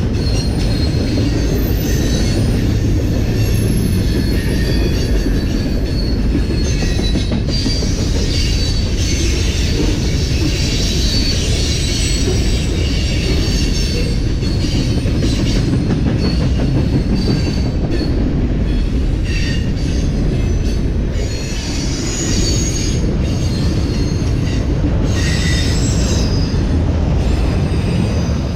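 Train cars rolling past at close range, a steady loud rumble with high wavering wheel squeal and scattered clicks of wheels over rail joints.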